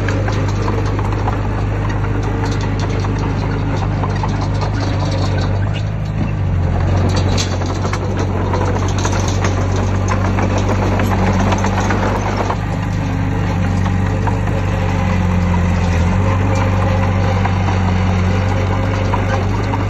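Heavy diesel engine of earthmoving machinery running loud and steady, with mechanical rattle over it; the engine note dips briefly twice.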